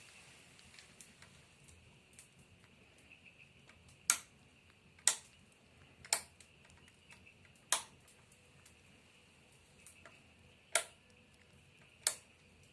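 Fire burning in a fireplace, crackling softly, with about half a dozen sharp pops at uneven intervals.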